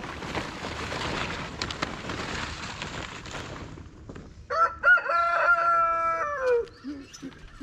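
Rustling footsteps through grass, then a rooster crows once, about two seconds long, dropping in pitch at the end.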